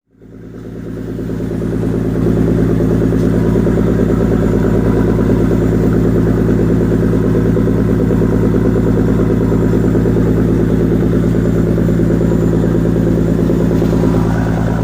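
Fishing boat's engine running steadily, coming up in level over the first two seconds and then holding even.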